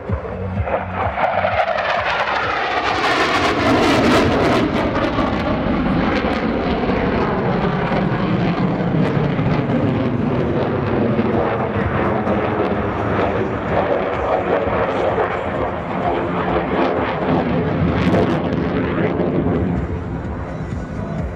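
F-16C Fighting Falcon's single jet engine, loud and continuous as the fighter flies a demonstration pass. Its pitch sweeps downward in the first few seconds as the jet goes by.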